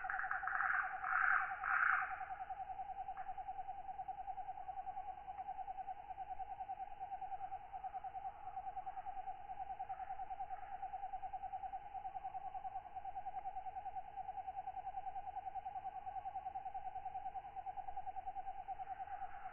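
Tropical night insect ambience: a continuous fast-pulsing trill held at one pitch, with a few louder raspy katydid calls in the first two seconds.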